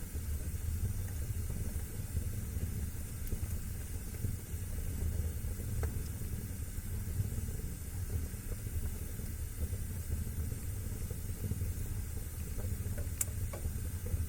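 Wood fire burning in a fireplace: a steady low rush of flame with occasional sharp crackling pops, the loudest about thirteen seconds in.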